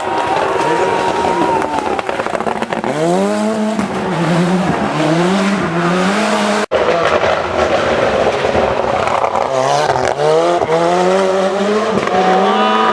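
Ford Sierra Cosworth rally car's turbocharged 2.0-litre four-cylinder engine under hard acceleration, its pitch climbing and dropping again and again as it shifts through the gears. There is a sudden break about halfway through.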